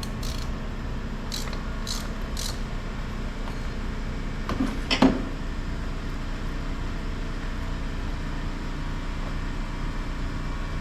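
A few light clicks and then a single louder clunk about five seconds in, as the hot oil filter is worked loose, over a steady mechanical hum.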